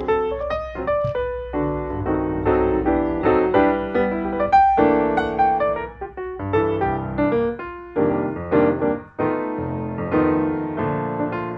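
Background piano music: a run of single notes and chords at an unhurried pace.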